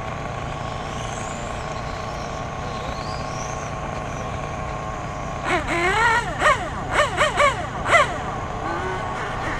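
Steady track background noise with faint rising whines from electric R/C motorcycles accelerating. In the second half, voices talk for a few seconds.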